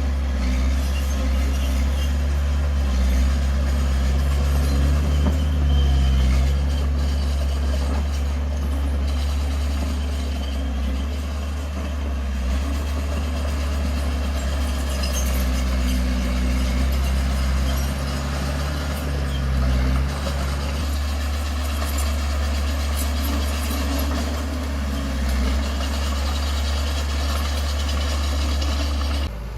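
Heavy diesel engine of earthmoving equipment running steadily under load, with a deep drone. The level drops suddenly at the very end.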